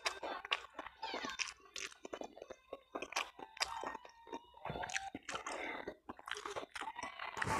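Close-miked chewing: a person biting and chewing small crunchy leftover bits of food, with a dense, irregular run of sharp crunches.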